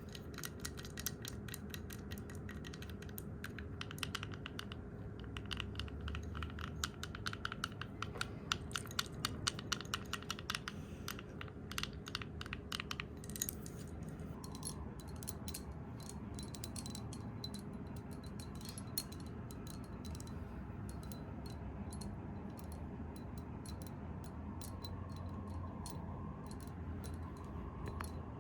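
Fast fingertip and fingernail tapping close to the microphone, a dense run of quick clicks that thins to scattered taps about halfway through.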